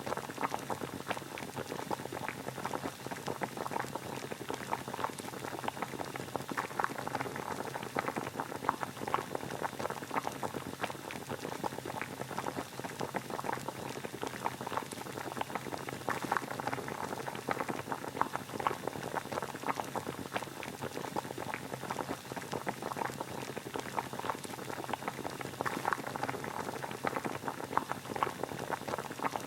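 Water boiling steadily at a full rolling boil, a continuous dense bubbling and popping with no let-up.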